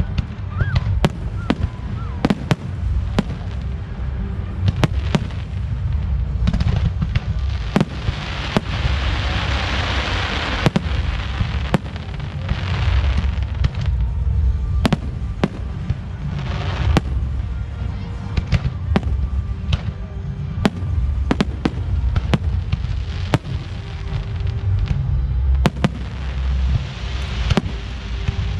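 Fireworks display: shells bursting in repeated sharp bangs, over a continuous low rumble. A long stretch of dense crackling comes about a third of the way in, and a shorter one near the end.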